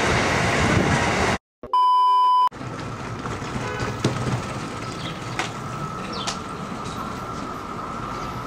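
Amtrak Northeast Regional passenger train passing at speed with loud rolling noise, cut off abruptly about a second and a half in. After a brief silence comes a loud, flat electronic bleep of under a second, then much quieter station ambience with a faint steady high tone and a few short high chirps.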